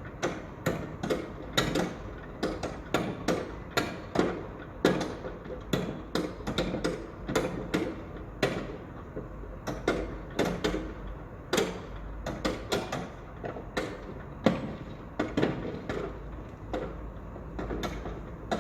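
Construction-site noise: irregular knocks and clanks, several a second at uneven intervals, over a steady low rumble.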